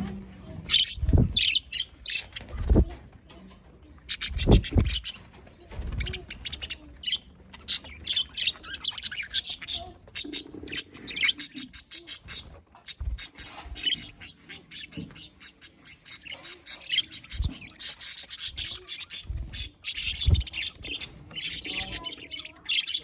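Budgerigars chirping and chattering in quick runs of short, high chirps, with a few dull thumps among them.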